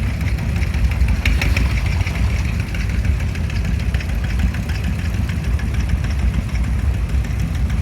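1953 Ford Golden Jubilee tractor's four-cylinder gasoline engine idling steadily with a deep, even rumble.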